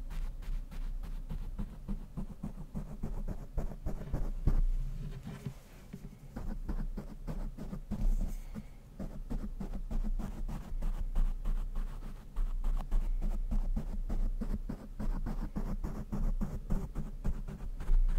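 A brush rubbed rapidly back and forth directly on a microphone: a dense, fast scratchy rustle with a heavy low rumble, easing off briefly a couple of times.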